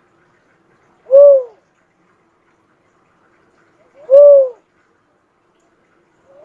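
Uncal cuckoo-dove calling: single short coos, each rising and then falling in pitch, repeated about every three seconds. Two full coos, then a third begins right at the end.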